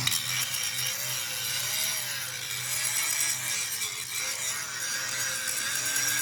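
A workshop power tool cutting, with a steady loud hiss and a faint tone that rises and falls about once a second.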